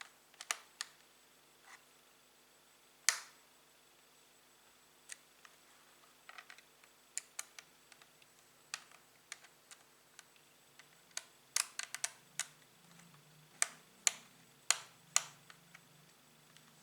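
Irregular sharp clicks and taps on hard plastic, about twenty scattered through, the loudest about three seconds in and a quicker run of them near the end, over a faint steady hum.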